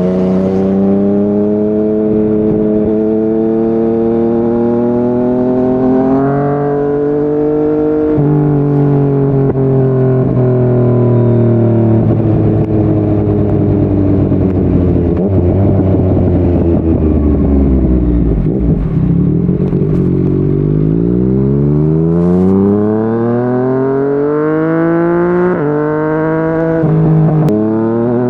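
Yamaha MT-09's three-cylinder engine through a Yoshimura R55 slip-on exhaust, riding at speed. It pulls up through two quick upshifts in the first eight seconds, then the revs fall away steadily for about ten seconds as the bike slows. It then accelerates hard again, with two more sudden upshifts near the end.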